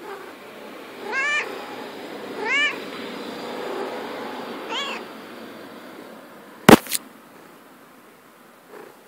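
Domestic cat meowing three times, short meows that rise and fall in pitch. Near the end come two sharp clicks in quick succession, louder than the meows.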